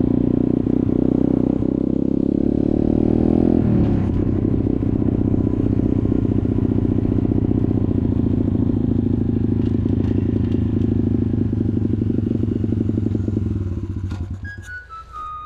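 Off-road motorcycle engine running under way, climbing in pitch for the first few seconds, dropping sharply about four seconds in, then holding steady before fading out near the end. Music notes come in over the last second.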